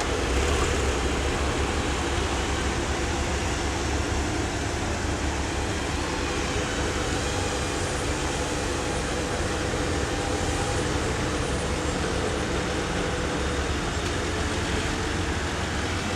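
Steady low rumble of a vehicle engine running, with no change or break.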